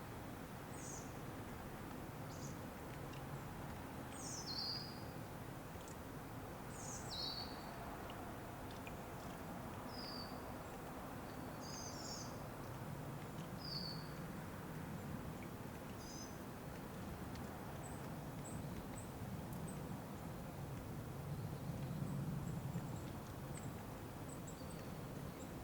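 Small birds chirping in short, high, falling notes every second or two, thinning out to a few faint ticks in the second half, over a steady low background rush.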